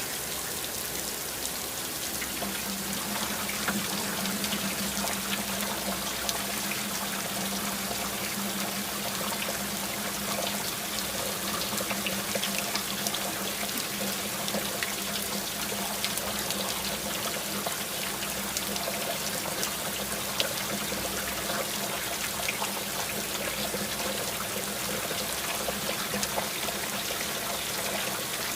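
Steady rain falling, many small drop ticks over an even hiss of water.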